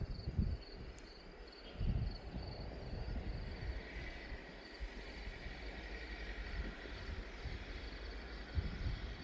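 Wind buffeting the microphone in low gusts, over the steady pulsing chirp of crickets at about three pulses a second. About four seconds in, a faint steady high whine joins in.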